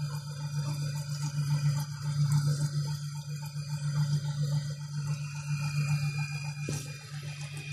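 Metal lathe running with a parting-off tool cutting a groove into a thick-walled steel workpiece, a steady low hum under uneven cutting noise. A sharp click comes near the end, and the sound then drops in level.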